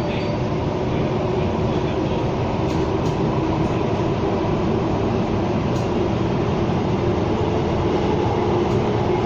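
Metro train running through a tunnel, heard from inside the carriage: a steady rumble with a steady hum that grows a little stronger in the second half.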